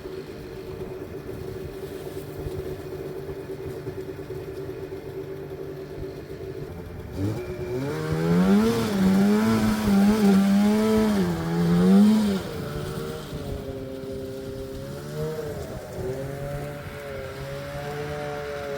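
Two-stroke snowmobile engine idling steadily, then revved up hard about seven seconds in for roughly five seconds before dropping back to a lower, wavering speed with short throttle blips. The revving is the machine straining to move on tracks held by ice.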